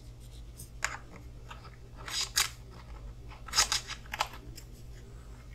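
Small, irregular clicks and scrapes of hand tools and small screws being handled while fitting screws into an RC car chassis, over a steady low hum.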